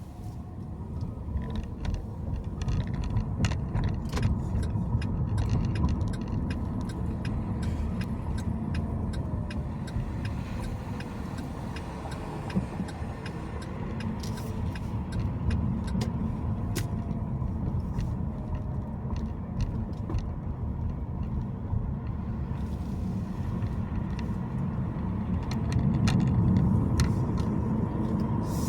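Car driving: steady low road and engine rumble with a faint whine and slowly gliding tones, and scattered small clicks and rattles throughout. The rumble grows louder near the end.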